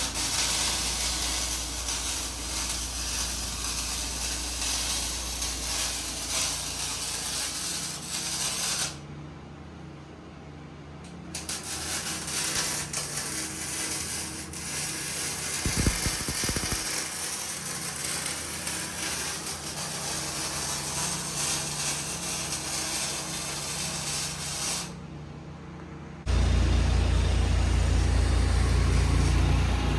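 MIG welding arc on stainless steel: a steady crackling hiss in two long runs, with a pause of about two seconds between them. Near the end it gives way to a loud, steady low engine hum.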